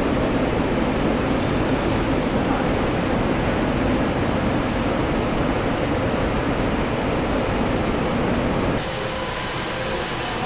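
Steady machinery noise and air hiss of a truck assembly plant floor, with no distinct single events. The background changes abruptly about nine seconds in to a slightly quieter hum with faint steady tones.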